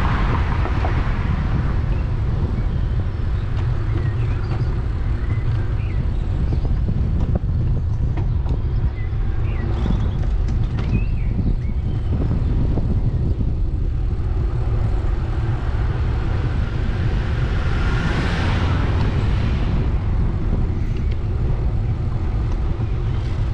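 Steady low rumble of wind and road noise on the microphone of a camera carried on a moving bicycle, with a motor vehicle passing about eighteen seconds in.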